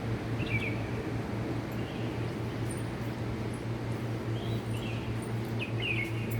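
Birds chirping in short high calls, a few about half a second in and a cluster near the end, over a steady low hum.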